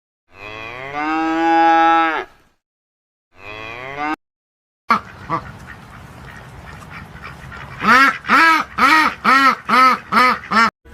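A cow mooing in one long, steady call, then a shorter one. Later a duck quacks about eight times in quick succession, about three quacks a second.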